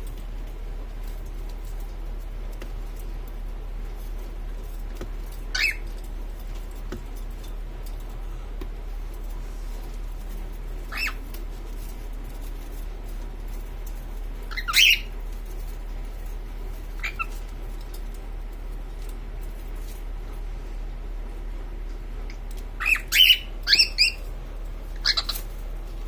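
Female cockatiel giving short rising chirps, scattered singly at first, then a quick run of several calls near the end.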